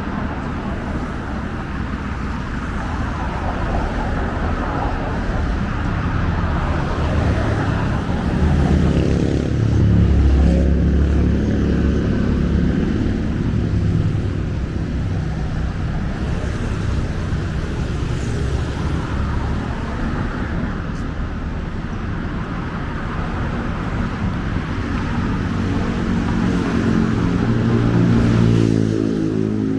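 Street traffic: motor vehicles passing continuously, with engine hum that swells as vehicles come close, most strongly about ten seconds in and again near the end.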